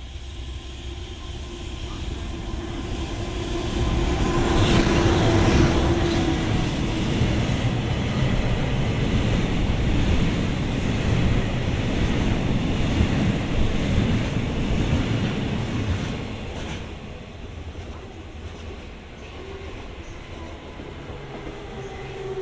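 EH200 electric locomotive hauling a freight train of tank wagons passing through at speed. The rumble of the wheels builds over the first few seconds, is loudest from about four to sixteen seconds in as the tank wagons run past, then fades as the train moves away. A humming tone comes in as the locomotive passes.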